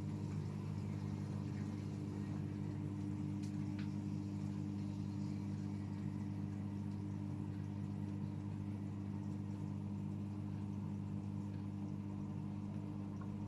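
AEG Öko-Lavamat front-loading washing machine running mid-cycle on a 40 °C cottons/easy-care wash, giving a steady low hum. There are a couple of faint ticks about three and a half seconds in.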